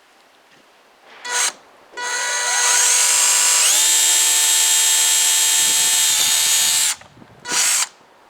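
Electric multi hammer drill: a brief trigger blip, then the motor spins up with a rising whine and runs steadily for about five seconds before cutting off suddenly, followed by another short blip.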